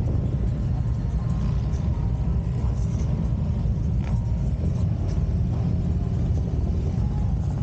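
Harley-Davidson Road Glide's V-twin engine running steadily at cruising speed, a deep even rumble.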